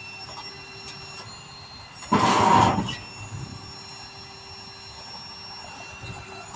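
A single short, loud, noisy grating burst lasting under a second, about two seconds in, over a steady mechanical hum with faint thin whining tones.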